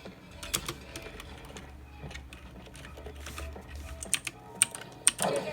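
Keys of a GK002-L one-handed keyboard clicking under irregular typing, with more and louder keystrokes from about four seconds in.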